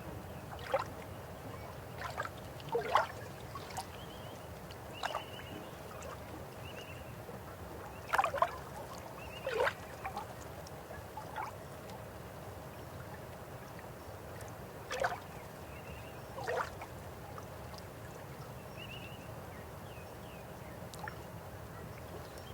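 River water flowing steadily, with about ten irregular gurgles and splashes, the loudest about eight seconds in. Faint short chirps come now and then.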